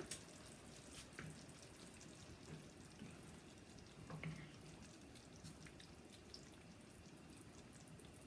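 Faint bubbling and crackling of a coconut-milk sauce simmering in a pan, with a couple of soft knocks.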